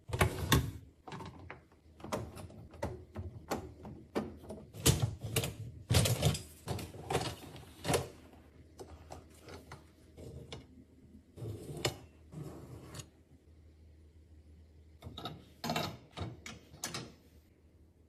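Irregular knocking, clicking and scraping of dishwasher parts being handled, in bursts, with a pause before a last cluster near the end.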